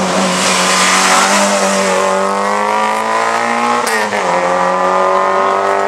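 Rally car engine at high revs, its pitch climbing steadily as the car accelerates. About four seconds in the pitch dips briefly as it shifts up a gear, then it climbs again.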